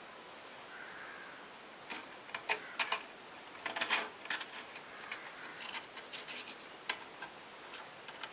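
A kitten at play: a scatter of light clicks and taps, thickest a little before the middle, thinning out toward the end.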